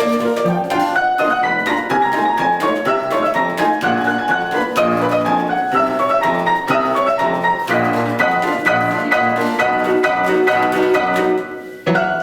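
A live instrumental duet with piano playing a quick, light polka. It comes to its close near the end, with a short break before a final note.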